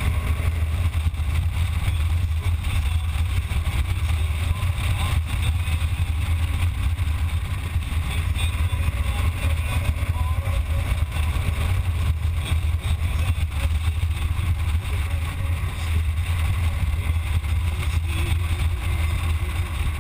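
Motorcycle engine running steadily under way, a constant low rumble with road and wind noise over it.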